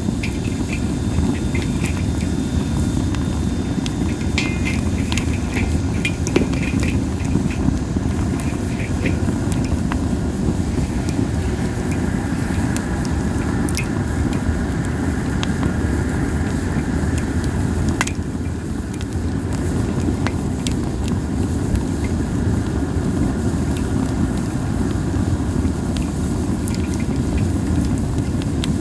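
Campfire of masaki (Japanese spindle tree) wood burning, with scattered crackles and pops. There are short whistling hisses from the burning wood, over a steady low rumble.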